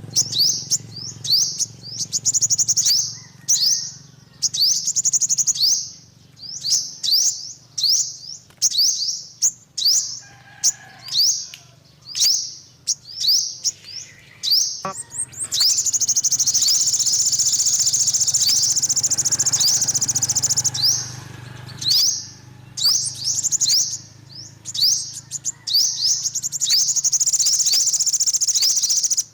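Yellow-bellied sunbird singing: quick runs of high, thin, down-slurred chirps. About halfway through they run together into a long unbroken trill for several seconds, and another trill comes near the end.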